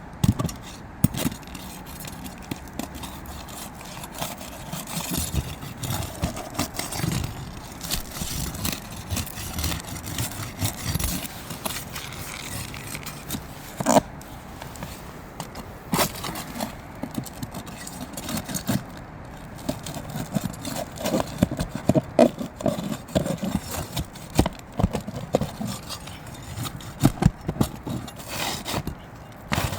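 Fiberglass asphalt roof shingle being worked loose and pulled out from under the courses above, its nails being released: irregular scraping with scattered sharp clicks and taps, and two louder sharp knocks about two seconds apart near the middle.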